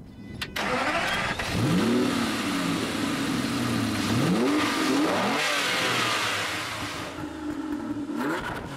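Aston Martin Vanquish Volante's V12 engine being revved several times, its pitch climbing and falling with each rev. The sound cuts in suddenly about half a second in.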